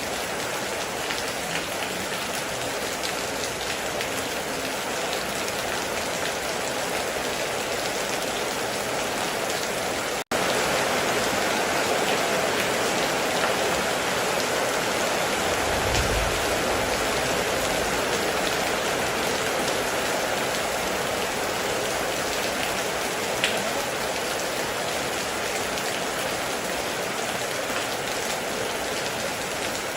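Steady heavy rain pouring on a metal roof, with occasional louder drop ticks. About ten seconds in the sound cuts out for a split second and comes back slightly louder, and a brief low rumble comes at about sixteen seconds.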